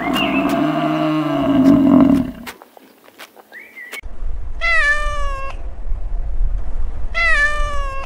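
A water buffalo lows once, a long low moo of about two and a half seconds. A domestic cat then meows twice, each meow falling in pitch.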